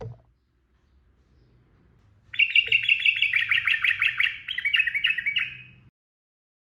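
Sooty-headed bulbul (trucukan) singing a fast rolling run of chattering notes, known as 'ropel', for about three and a half seconds. The run starts a couple of seconds in and stops abruptly. A brief low thump comes at the very start.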